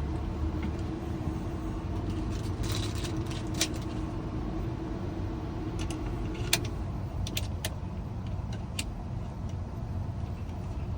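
Electronic key cutting machine running as it cuts a key: a steady motor hum with a held tone that stops about six and a half seconds in, and a few sharp clicks.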